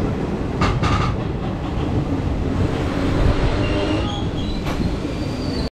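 Passenger train running, heard from an open coach door: a steady rumble of steel wheels on the rails with a few knocks at the rail joints about a second in, and some faint, brief high wheel squeals in the second half.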